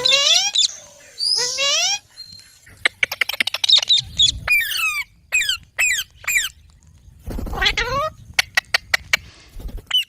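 Baby green parrot calling. Harsh rising squawks near the start and again about seven seconds in alternate with fast runs of clicking chatter and a string of short falling squeaks.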